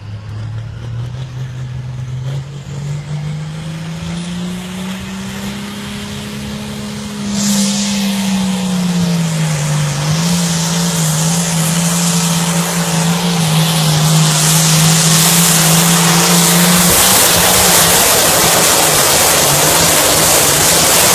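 Pulling tractor's engine running hard under load as it drags the sled, its pitch climbing over the first several seconds and then holding steady. About seven seconds in a loud hiss comes in over it, and near the end the engine tone drops out, leaving the hiss.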